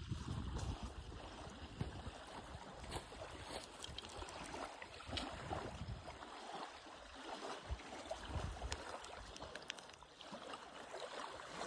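Outdoor rushing noise with wind gusting on the microphone, rumbling in the first half and again about eight seconds in, with scattered light clicks.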